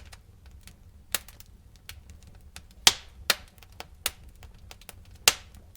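Wood fire crackling in a fireplace: irregular sharp pops and snaps, with louder pops about three seconds in and near the end.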